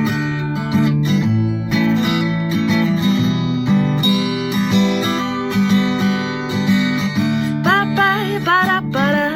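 Acoustic guitar strummed in a steady rhythm, a song's instrumental passage; a woman's singing voice comes in near the end.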